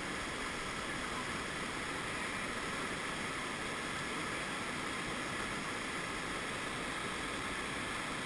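River rapids rushing steadily, an even unbroken whitewater noise.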